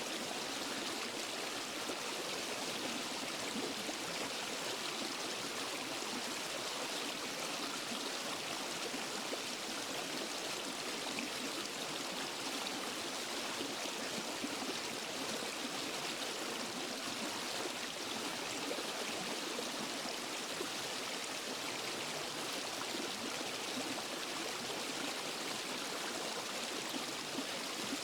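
Small waterfall and forest stream: water tumbling and rushing over rocks in a steady, even wash.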